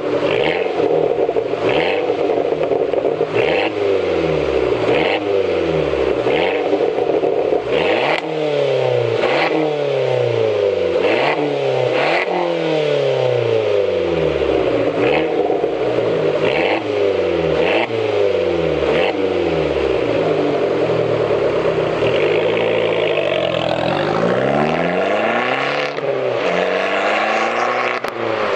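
Abarth 500's turbocharged 1.4-litre four-cylinder being revved again and again through a Magneti Marelli Bombardone race exhaust. The revs climb and drop about every second or so, with a short sharp burst at the top of most blips. Near the end there are a few longer, slower rev rises.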